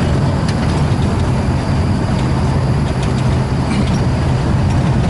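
Engine and road noise of a moving passenger vehicle, heard from on board: a steady low rumble with an even hiss over it.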